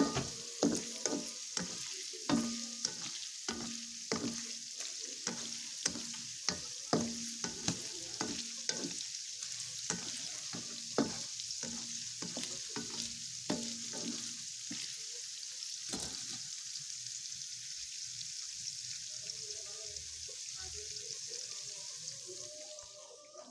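Tofu cubes frying in hot oil in a wok, with a steady sizzle. A spatula stirs and scrapes against the pan in frequent knocks for the first two-thirds, then the sizzle goes on alone.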